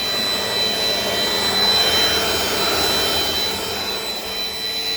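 Dirt Devil Dynamite Plus vacuum cleaner running steadily: an even rush of air with a constant high motor whine over it.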